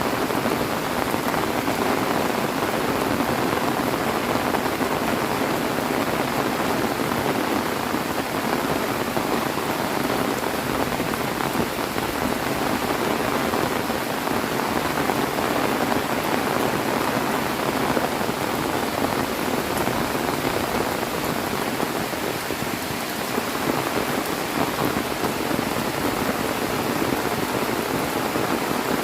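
Heavy rain falling steadily: a dense, even hiss of drops with no thunder standing out.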